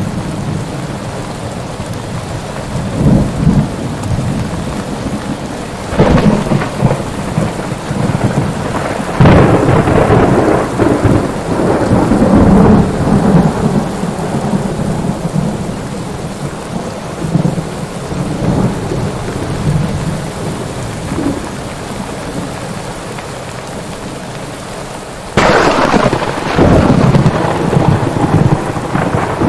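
Thunderstorm: steady heavy rain with rolling thunder. Thunder rumbles swell about six and nine seconds in, and a sudden sharp thunderclap breaks near the end.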